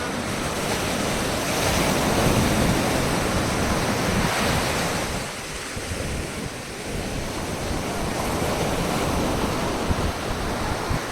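Sea waves washing onto the beach, swelling and easing, a little quieter for a couple of seconds around the middle. Wind rushes on the microphone.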